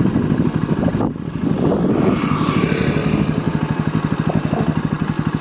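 A vehicle engine idling steadily, with an even, rapid firing pulse.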